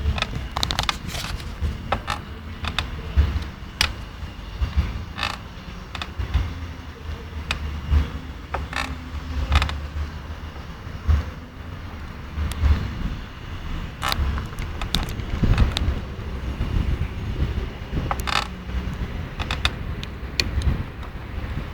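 GT Avalanche mountain bike creaking and crackling: sharp, irregular clicks every second or so over a low rumble. It is an unexplained creak on a bike only about five weeks old.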